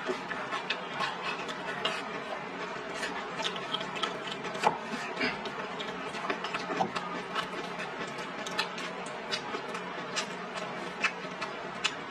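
Close-up eating sounds of a person chewing a mouthful of rice and stir-fried vegetables: irregular wet mouth clicks and smacks, over a faint steady hum.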